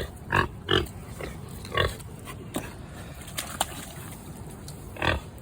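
Pig grunting in short bursts, about five grunts with a quiet stretch in the middle.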